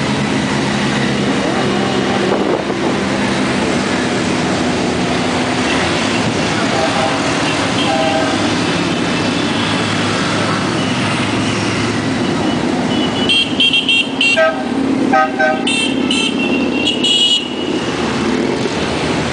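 Motorcycles riding past in a parade, engines running steadily. About two-thirds of the way through comes a string of short, repeated horn beeps.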